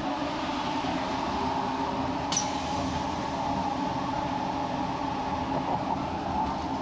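Steady running noise of a moving passenger rail car heard from the vestibule between cars: an even rumble and rattle with a few steady hum tones. A single sharp click comes about two seconds in.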